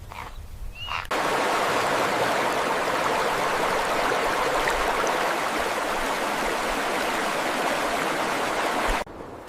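Steady rushing water, like a stream or waterfall, that cuts in abruptly about a second in and cuts off just before the end.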